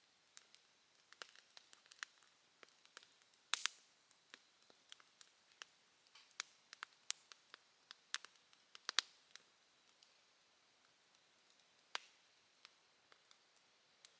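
Bonfire crackling: irregular sharp pops and snaps, with a louder pair of pops about three and a half seconds in and another strong pop near nine seconds.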